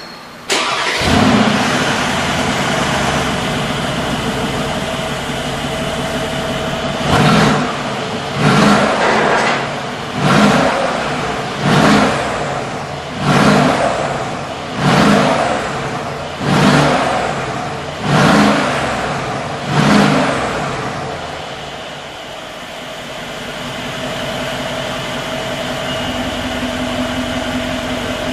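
Mercedes-AMG G63's twin-turbo V8 through a Brabus exhaust, coming in sharply about half a second in and settling to idle. It is then blipped nine times in quick succession, about one rev every second and a half, before dropping back to a steady idle.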